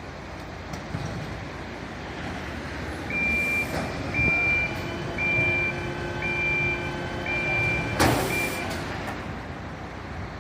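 Reversing alarm on a fire truck beeping about once a second, six high-pitched beeps over the truck's running engine. A short, loud hiss of air comes about eight seconds in, near the last beeps.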